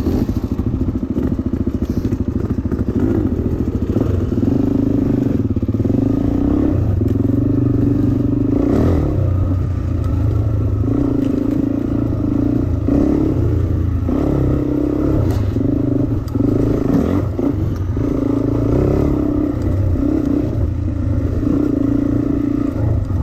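Dirt bike engine running hard under the rider, its note repeatedly rising and dropping as the throttle opens and closes, with occasional clatter from the bike.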